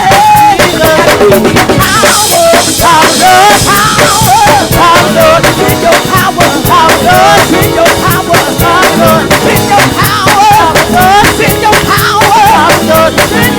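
Live gospel praise band: a drum kit plays a fast, busy beat of dense snare and cymbal strokes, with wavering melodic lines, likely singing, over the band.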